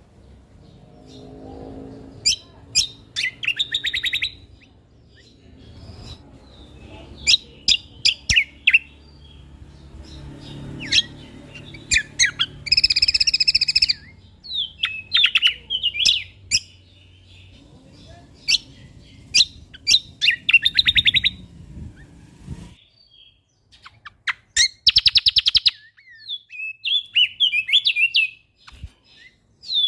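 Cucak kombo (kecial kombok) singing in bursts of rapid chattering trills and sharp high notes, with a longer buzzy note about 13 seconds in and again about 25 seconds in. A faint low rumble lies under the song until about three quarters of the way through.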